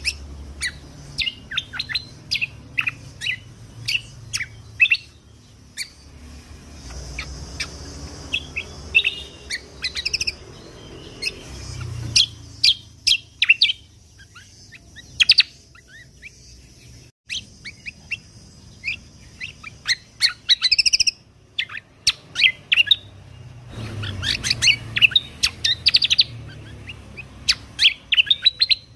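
Kecial kombo (cucak kombo) songbird singing in rapid bursts of short, sharp, high chirps and trills, the fast 'tembakan' shooting notes kept as tutor song, with a quieter gap about halfway through.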